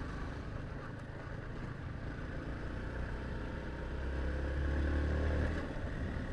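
Motorcycle engine running steadily under way with road and wind noise, swelling louder for a couple of seconds about four seconds in before easing off.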